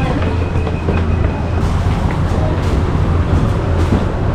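Steady low rumble of a moving road vehicle, with traffic noise around it.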